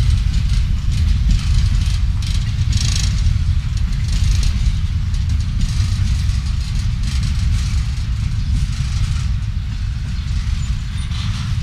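Freight train rolling past on the rails: a steady low rumble with a fainter, uneven rattle of wheels on track above it.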